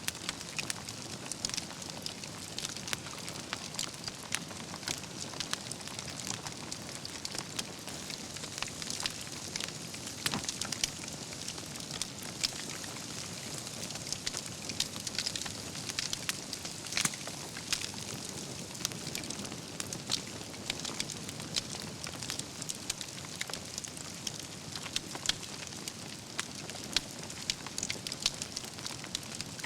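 Wood campfire burning, logs crackling and embers popping in quick irregular clicks over a steady soft hiss, with an occasional louder crack.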